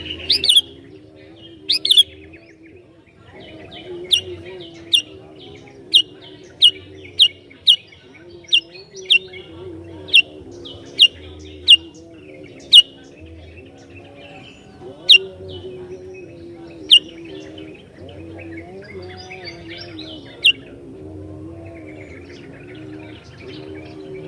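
Sooty-headed bulbul (kutilang) calling: a run of loud, sharp chirps, each a quick downward sweep, repeated about once a second and stopping a few seconds before the end. A faint low drone that steps up and down in pitch runs underneath.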